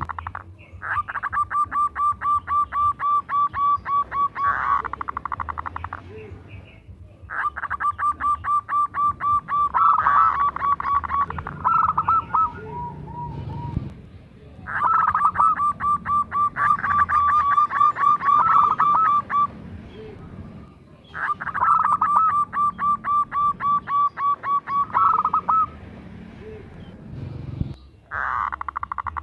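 Zebra dove (perkutut) singing: four bouts of rapid, evenly spaced short cooing notes, each bout lasting several seconds, with brief pauses between them.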